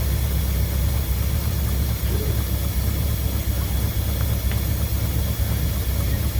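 1963 Mercury's engine idling steadily and evenly on a freshly rebuilt Motorcraft 2100 two-barrel carburetor, running through a worn-out exhaust system.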